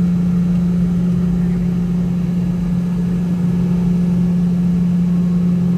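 Steady engine drone heard inside the cabin of a Boeing 717-200, from its rear-mounted Rolls-Royce BR715 turbofans: a constant low hum with one strong tone over a rumble, unchanging in pitch and level.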